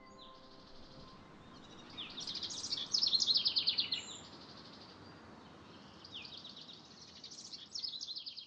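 A songbird singing two phrases of rapid, high, repeated trilled notes, the first about two seconds in and the second about six seconds in, over a faint hiss.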